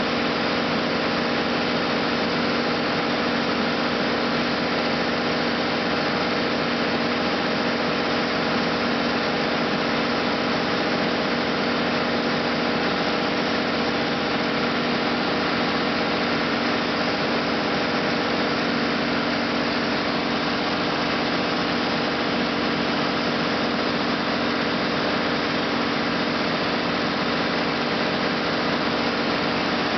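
John Deere 6125 tractor's diesel engine running steadily at idle, with no change in pitch or level. The owner puts the engine issue heard down to a roll pin problem.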